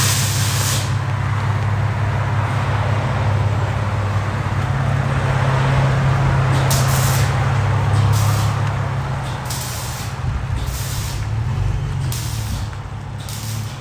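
2011 Chevy Camaro's 3.6L V6 running with a deep, steady exhaust drone through Flowmaster FX resonators in place of the mufflers (muffler delete, factory H-pipe). The exhaust eases off somewhat near the end.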